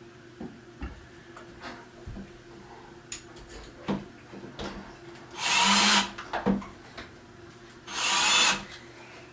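Cordless drill-driver running a small screw into a cabinet door hinge in two short bursts, each about half a second long, in the second half. Light clicks and knocks from handling the hinge and door come before them.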